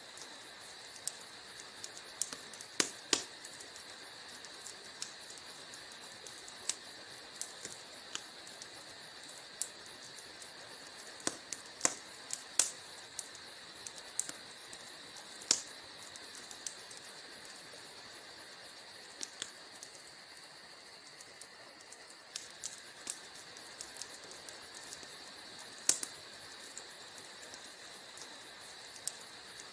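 Wood fire crackling in a fireplace: a steady hiss with irregular sharp pops and snaps. Among the pops, a few stand out louder: around three seconds in, near twelve seconds and near twenty-six seconds.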